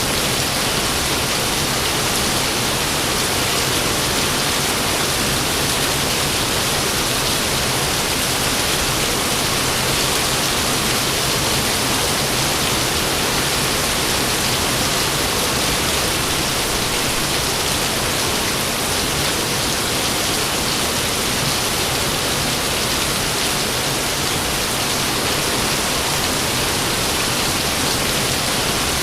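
Steady, even rainfall with a constant hiss and no thunder claps.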